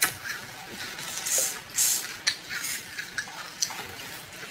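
Close-miked eating sounds: wet, sticky chewing and lip smacks on a soft ring-shaped cake, coming in short scattered bursts.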